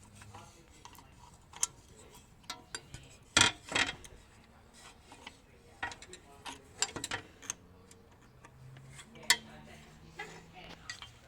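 Hand tools and metal engine parts clinking and knocking at irregular intervals, with the loudest knocks about three and a half seconds in and another sharp one near the end.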